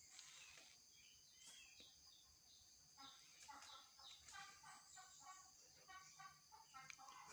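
Zebra dove cooing: from about three seconds in, a run of short, quick, rolling coo notes, faint against a steady high hiss.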